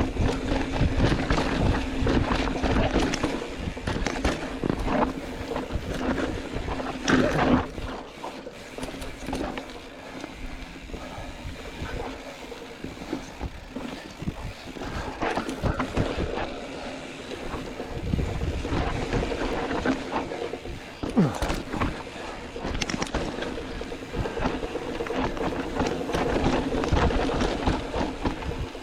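2020 YT Jeffsy mountain bike descending a rough, rocky downhill trail: tyres crunching over dirt and rock, with the chain and frame rattling, and sharper knocks over bigger rocks about seven seconds in and again near twenty-one seconds.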